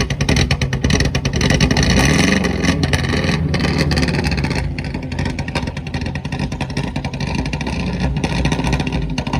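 Four-cylinder race car engine running rough just after starting: it picks up briefly in the first few seconds, then settles to an uneven idle, skipping and backfiring. The engine is not running as it should; something is wrong with it.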